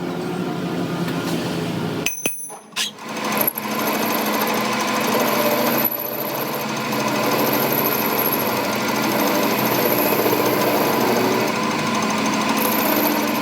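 A machine or power tool running with a rapid, steady hammering rhythm. The sound drops out briefly about two seconds in, then carries on.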